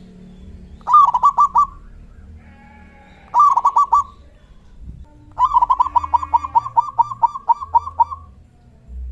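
Zebra dove (perkutut) cooing: three runs of quick repeated coo notes, the third run about three times as long as the first two.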